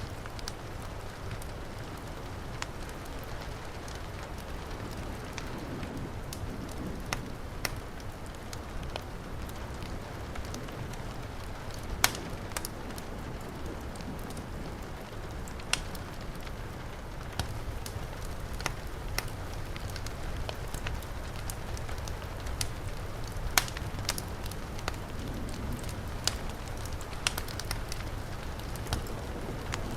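Fireplace fire crackling with scattered sharp pops over the steady hiss of heavy rain.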